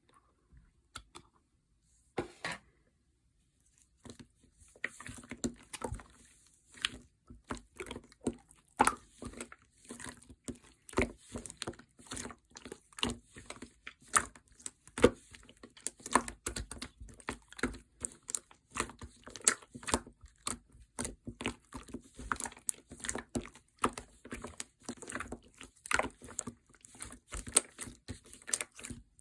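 Slime being squished and pressed by hand, making small clicking and popping sounds. There are just a few clicks at first, and from about four seconds in they come as a dense, irregular run.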